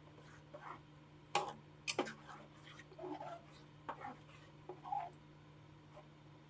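Irregular knocks and clinks of kitchen work over a steady low hum, the loudest knocks about a second and a half and two seconds in.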